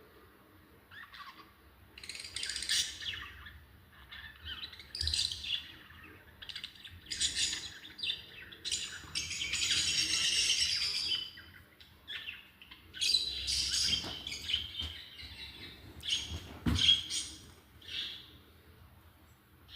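Lovebirds chirping and squawking in quick shrill bursts, with a denser run of chatter about halfway through. A single knock sounds near the end.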